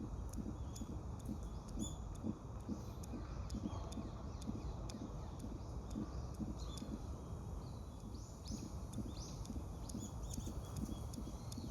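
Outdoor park ambience: a steady run of soft low thumps about three a second throughout, with a few short, high chirps from a bird or birds about two-thirds of the way in.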